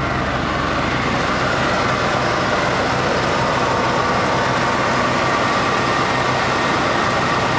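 Truck engine idling steadily as it warms up after sitting unused through two winter months, sounding healthy, with the heater fan blowing.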